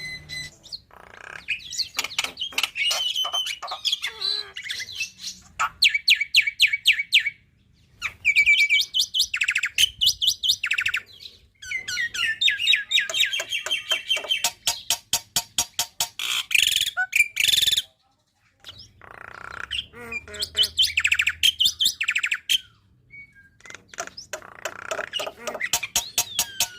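Black-winged myna (jalak putih) singing in loud bursts of rapid repeated chattering notes and whistles, mixed with calls of other birds that it mimics, broken by several short pauses.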